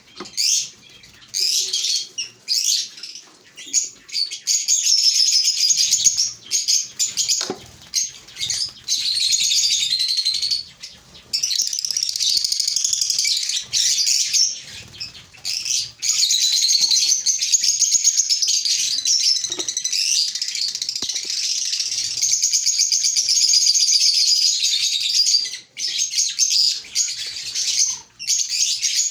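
Lovebirds chattering: a dense, almost unbroken stream of high, shrill chirps, with a few brief pauses.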